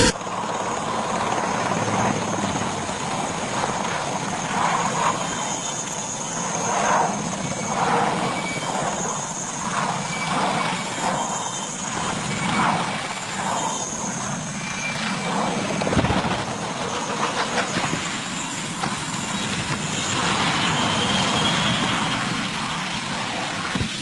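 Rotor aircraft running, a steady engine and rotor noise that swells and fades a little.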